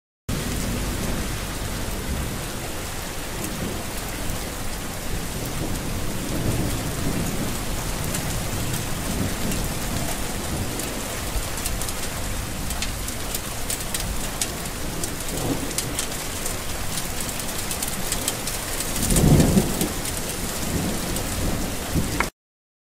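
Steady heavy rain falling, with scattered drop ticks and low rumbles of thunder, the loudest about nineteen seconds in. The sound starts and stops abruptly.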